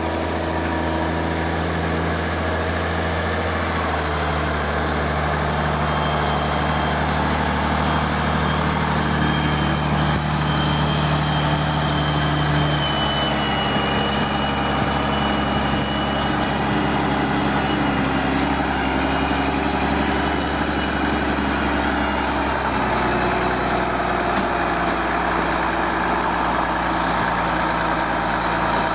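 Heavy vehicle engine running steadily, its note shifting a few times with changes in engine speed.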